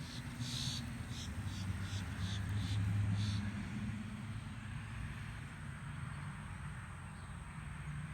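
Outdoor background noise: a steady low hum that swells about two to three seconds in, over a faint hiss, with a run of faint, evenly spaced high ticks during the first few seconds.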